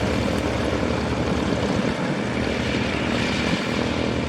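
Propeller airplane's engine running steadily, a continuous pitched drone with a propeller buzz.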